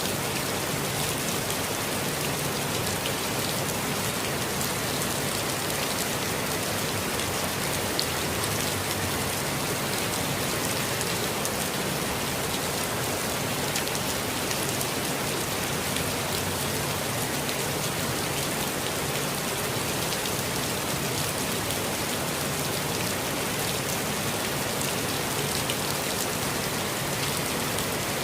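Steady rainfall, a dense even hiss of many small drops with single drops ticking sharply through it.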